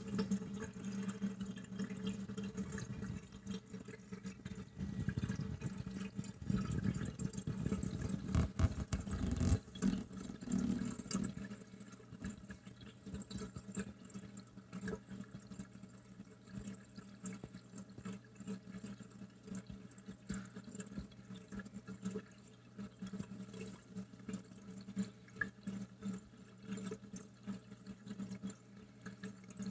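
GE Profile dishwasher's drain pump running with a steady low hum while water streams out of the drain and splashes. The flow is heavier for the first ten seconds or so, then thins to lighter trickling and dripping. The owner suspects the drain pump is weak because it stops before the tub is empty.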